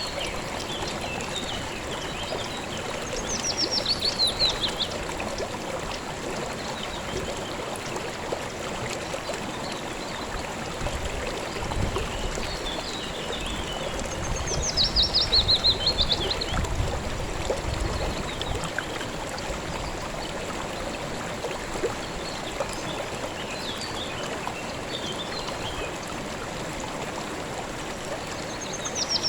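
River water running steadily over stones. A bird sings a short, quick phrase of high notes that falls in pitch, three times about twelve seconds apart, with fainter chirps in between.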